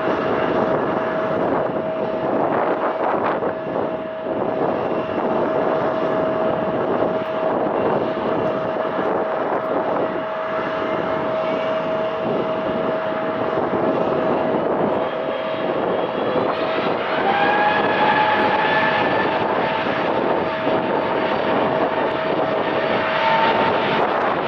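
Airliner engines running at takeoff power: a dense engine noise with a steady whine, and a second whine rising in pitch about two-thirds of the way through.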